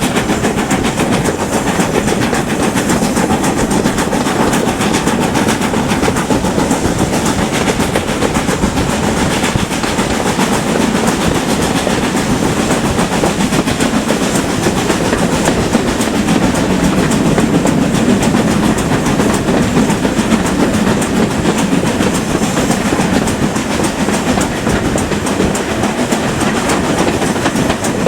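Steam-hauled train running steadily along the line, with continuous rolling noise and wheels clattering over the rails.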